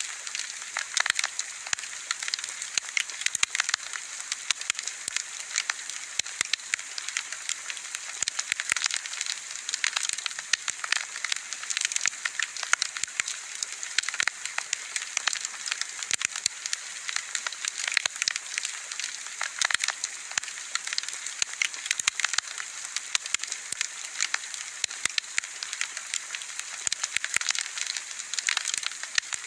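Wood bonfire crackling: a dense run of sharp pops and snaps over a steady hiss of burning.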